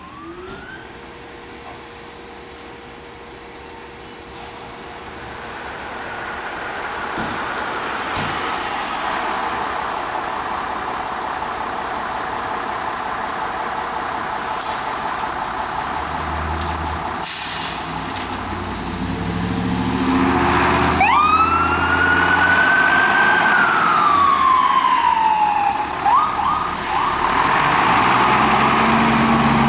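Fire engine and ambulance responding with sirens: an electronic siren wails and then warbles rapidly, getting louder. About two-thirds of the way in, a siren sweeps sharply up and then slowly winds down, amid deep horn blasts and heavy diesel engine noise.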